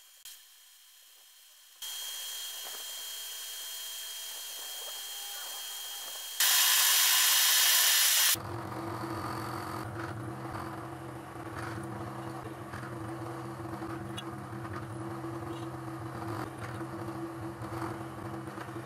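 Power tools in a sequence of abrupt changes: a steady high-pitched whine, a much louder hiss for about two seconds, then a lower steady motor hum with scraping and ticking.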